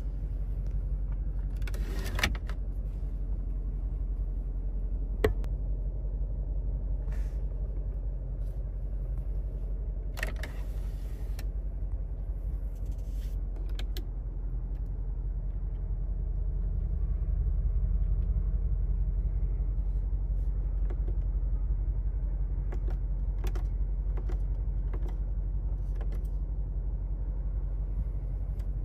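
Mercedes-AMG G63's 4.0-litre twin-turbo V8 running steadily at idle, a low rumble that swells slightly about halfway through, with a few sharp clicks and knocks over it.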